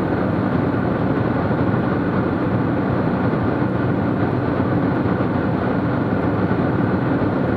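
Steady drone of a Cessna T210's turbocharged six-cylinder piston engine and propeller in cruise, heard from inside the cabin.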